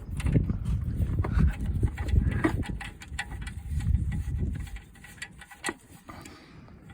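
Irregular metallic clicks of a 13 mm wrench working the oil pan drain plug loose, over a low rumble, thinning to a few isolated clicks after about five seconds.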